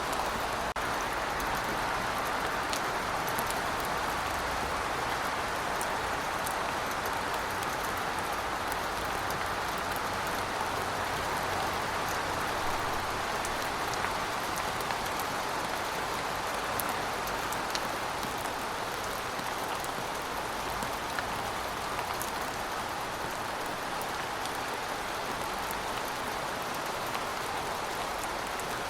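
Steady rainfall: an even hiss of rain with scattered sharp ticks of individual drops.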